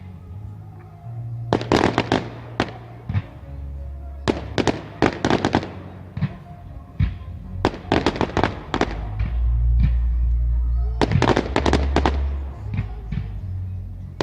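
Fireworks going off: four volleys of rapid sharp cracks, each about a second long and a few seconds apart, over low rumbling booms.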